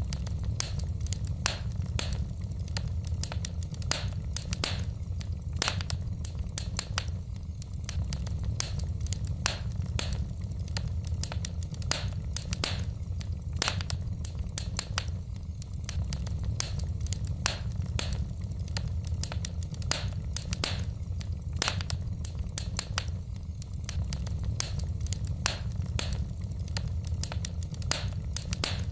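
Wood fire in a fireplace crackling: irregular sharp pops and snaps from the burning logs, several a second, over a steady low rumble.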